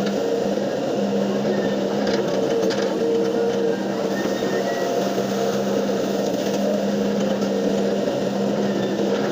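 Diesel engine of a hydraulic excavator running steadily while working, a continuous drone with a steady hum.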